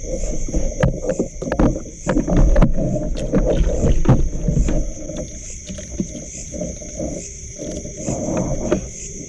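Water sloshing and splashing with scattered knocks, busier and louder in the first half. A steady high-pitched insect drone runs underneath.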